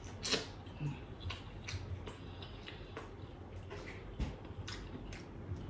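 A person eating corn from a seafood soup, with soft, irregular wet clicks and smacks of biting and chewing, about one or two a second.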